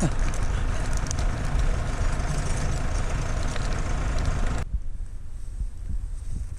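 An engine running steadily with a strong low rumble. About four and a half seconds in, most of the sound cuts off abruptly, leaving a quieter low rumble.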